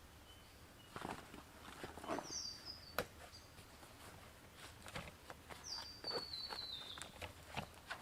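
Quiet footsteps and the rustle and knock of camping gear being handled, with one sharp click about three seconds in. A bird gives a short high falling call, then a longer call that steps down in pitch.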